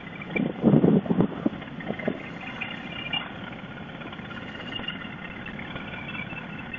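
Wind and motorcycle engine noise picked up by a helmet intercom microphone while riding, with a few loud gusts in the first second and a half. Faint, short high squeaks come and go through the rest; the riders soon after call it a squeak that sounds like a bird.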